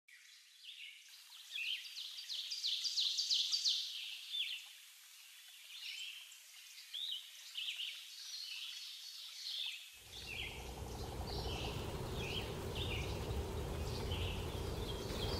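Small birds chirping and calling in quick, short notes, a dense run of calls in the first few seconds and then scattered calls. About ten seconds in, a steady low rumble comes in suddenly beneath them.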